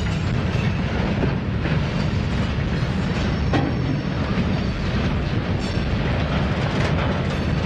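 Empty freight cars, bulkhead flatcars with upright stakes, rolling past on the rails: a steady low rumble with occasional clicks of the wheels over rail joints.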